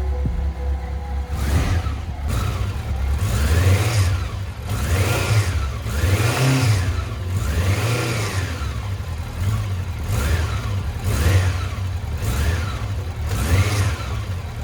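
Honda CB750's air-cooled inline-four engine running with the throttle blipped over and over, about a dozen quick revs rising and falling roughly once a second. The engine is reported to make an extraneous noise when the throttle is opened.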